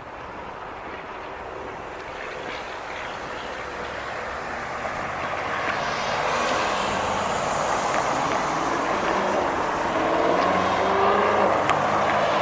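A motor vehicle approaching and growing steadily louder, its engine note rising near the end.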